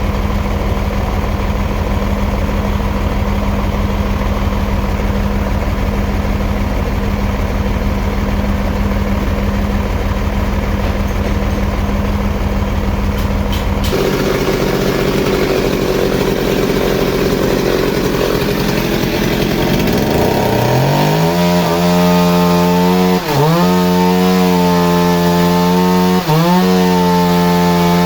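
An engine runs steadily with a low rumble. Then a chainsaw revs up to full throttle and holds a high steady whine while cutting wood, its pitch dipping briefly a few times as the chain bites.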